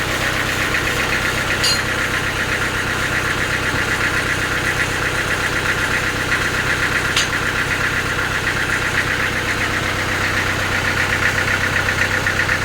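Sawmill machinery running steadily, an engine driving the saw, with a fast, even pulsing. Two sharp clicks come through, one about 2 seconds in and one about 7 seconds in.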